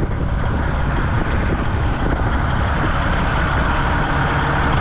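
Cat 3406E diesel engine of a Freightliner FLD120 semi truck running, with a steady rushing noise over it.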